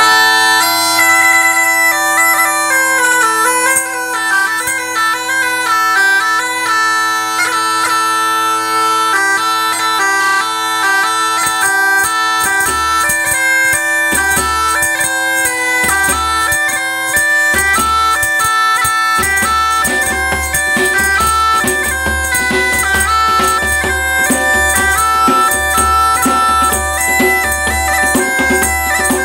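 Live folk trio of bagpipe, African drum and hurdy-gurdy: a bagpipe melody steps over a steady drone, and a low drum beat comes in about twelve seconds in.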